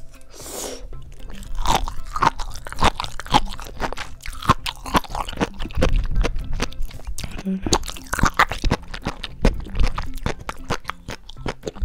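Close-miked chewing of sea grapes (Caulerpa lentillifera seaweed), the small beads bursting in many quick, crisp, irregular crackles and pops.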